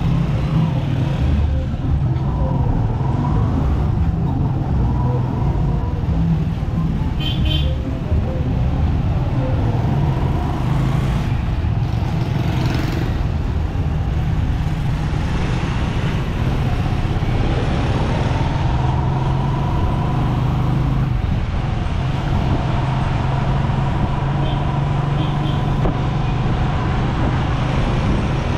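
Motorcycle engine of a Philippine tricycle, a motorcycle with a sidecar, running steadily under way, a continuous low rumble with street traffic around it.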